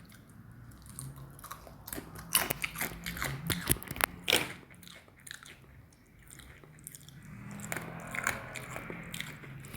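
A person chewing and biting crunchy food close to the microphone: irregular sharp crunches, thickest between about two and four and a half seconds in.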